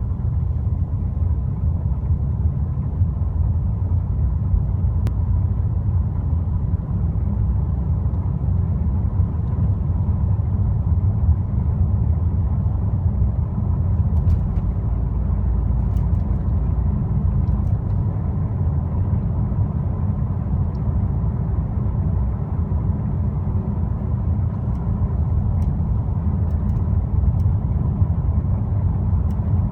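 Car with a powerful petrol engine driving steadily at low revs: a constant low rumble with no revving.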